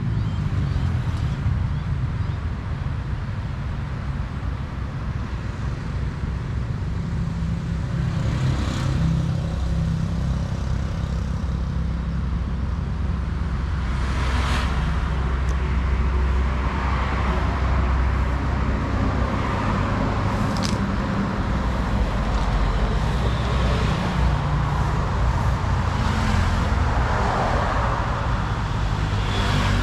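A heavy truck's diesel engine running with a steady low rumble among road traffic noise, with a few short clicks.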